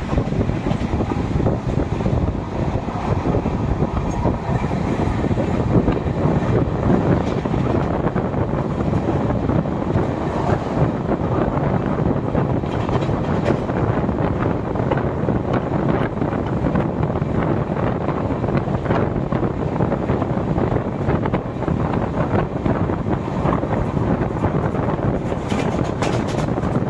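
Lucknow–Patliputra Superfast Express running at speed: the steady rumble and rattle of the coaches on the track, with some wind on the microphone.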